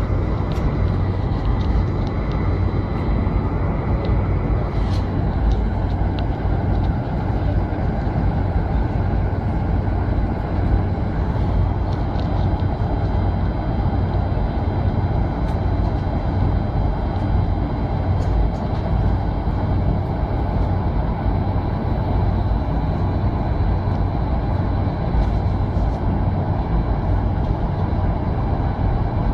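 Steady, loud rumble of a Boeing 747's jet engines and airframe heard inside the passenger cabin, with a few faint rattles now and then.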